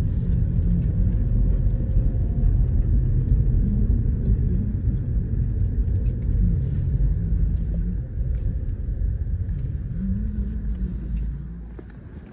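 Car engine and road rumble heard from inside a moving car, a steady low drone whose pitch wavers slightly, dying away near the end.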